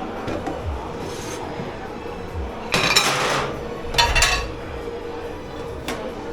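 Dishes and cutlery clattering and scraping as they are washed in a dish pit, with two louder rattling bursts about three and four seconds in, over a steady hum.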